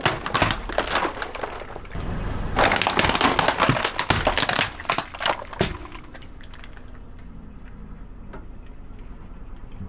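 Car tyre rolling over brittle objects and crushing them: a dense run of sharp cracks and crunches for almost six seconds, with a brief lull about two seconds in. It stops suddenly, leaving only a low steady rumble.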